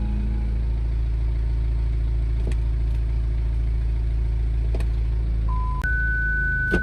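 BMW X4 20d's four-cylinder diesel idling steadily, heard from inside the cabin, with a few light clicks. Near the end a short beep, then a steady higher warning tone from the parking sensors, which sound because the car is parked close to objects front and back.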